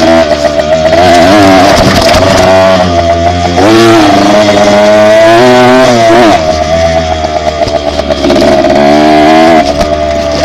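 Dirt bike engine running under way, its revs rising and falling again and again as it is ridden.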